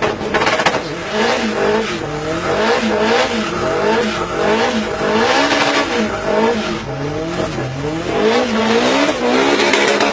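Car engine revved up and down over and over in quick, regular blips, loud throughout.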